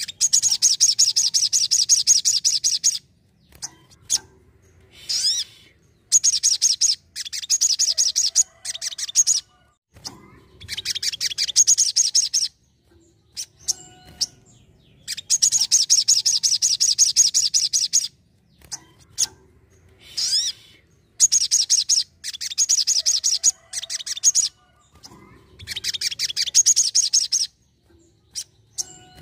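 A sogon sunbird singing in gacor style: a run of phrases, each a second or two long, of very rapid high-pitched trilling notes, with short pauses between them.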